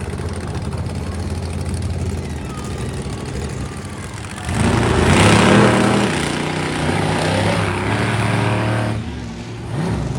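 Monster truck engine running steadily, then revving up loudly about four and a half seconds in, its pitch climbing and falling. It eases off briefly near the end, then comes back up.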